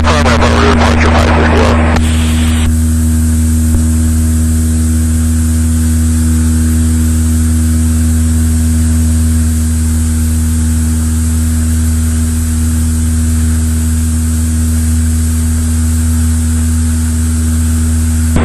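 Cessna 172's piston engine and propeller droning steadily, with a rush of wind noise over it. Another sound, layered over the drone, stops about two to three seconds in.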